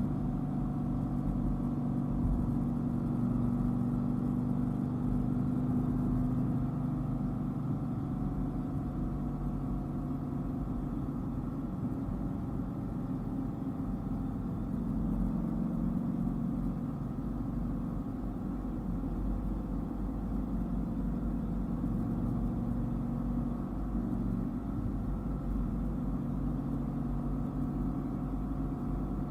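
Dodge Viper's V10 engine running at a steady cruise, a low drone whose pitch shifts a little a few times as the speed changes.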